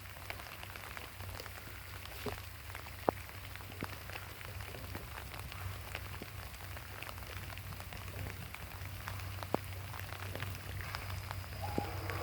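Quiet trackside background with a steady low hum and scattered sharp ticks, two of them louder. Near the end a faint steady whistle tone begins: the first of the C11 steam locomotive's whistle.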